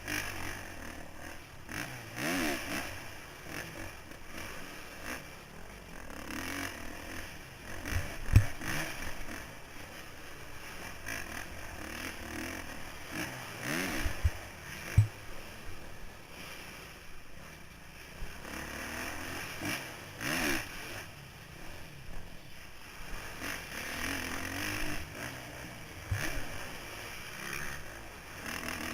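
2009 Kawasaki KX450F's single-cylinder four-stroke engine revving up and falling off again and again while riding, heard through a helmet camera. Two sharp thumps stand out, about eight seconds in and again at fifteen.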